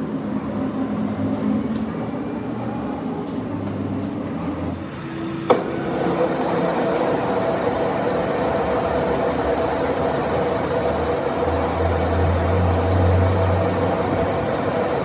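Metal lathe running steadily with a mechanical hum. About five and a half seconds in there is a sharp click, and after it the running note changes to a new steady pitch.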